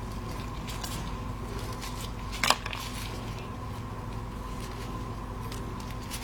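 Faint clicks and rustles of handling over a steady electrical hum, with one sharp click about two and a half seconds in.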